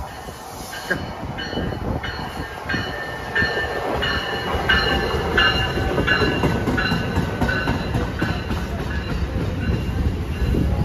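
NJ Transit train of double-deck Multilevel coaches rolling through the station: the low rumble of wheels on rail grows louder over the first few seconds as the cars come alongside. Short high-pitched wheel squeals repeat about every two-thirds of a second.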